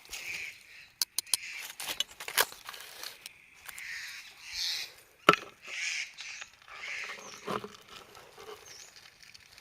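Rustling and crackling with scattered sharp clicks and snaps, one louder snap about halfway, and a few faint short chirps in the second half.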